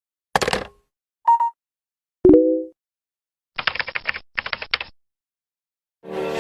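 A run of short added sound effects with dead silence between them: a burst of clicks, a brief high tone, a sharp hit with a short ringing tone, then rapid typing-like clicks for about a second. Music fades in near the end.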